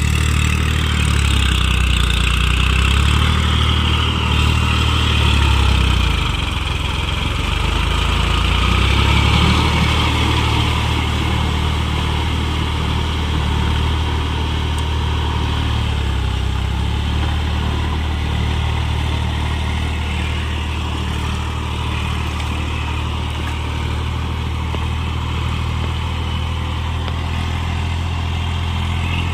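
New Holland tractor's diesel engine running, its speed and level shifting over roughly the first ten seconds, then settling to a steady run.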